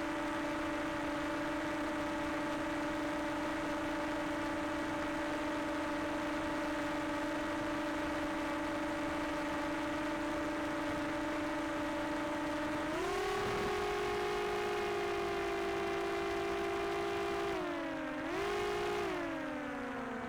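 Quadcopter drone's propellers whining at a steady pitch, stepping up in pitch about two-thirds of the way through, then dipping briefly and sliding down and back up near the end as the motor speed changes.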